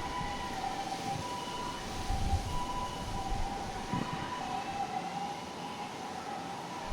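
Distant two-tone emergency vehicle siren, two steady pitches held throughout, under gusts of strong wind buffeting the microphone.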